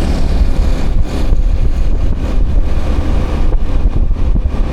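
Wind buffeting the microphone on a moving motorbike, a steady low rumble, with the bike's engine and road noise underneath.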